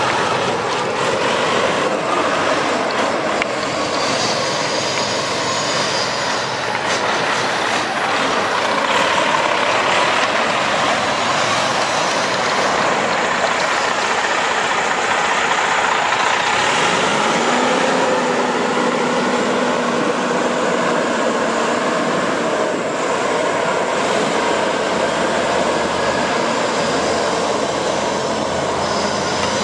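Freightliner Columbia tractor truck's 14-litre Detroit diesel running under a steady, loud rushing noise. A little past halfway, a tone rises in pitch and then holds steady.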